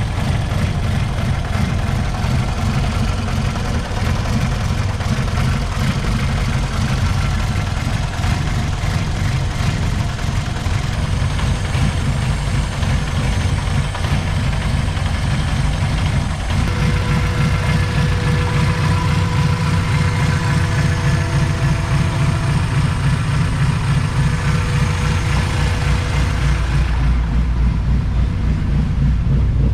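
High-compression B20VTEC Honda four-cylinder idling steadily: a freshly built engine still being set up before its tune.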